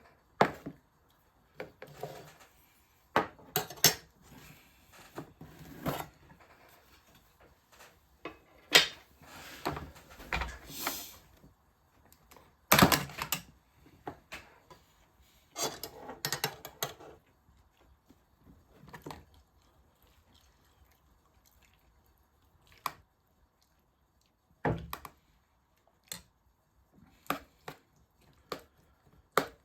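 Irregular knocks, clinks and clatter of objects being handled and set down, with quiet gaps between them.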